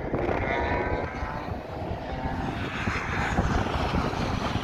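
A BMW M racing car's engine going past on the circuit, its note dropping in pitch and fading away over the first second or two. Heavy wind buffeting on the microphone rumbles throughout.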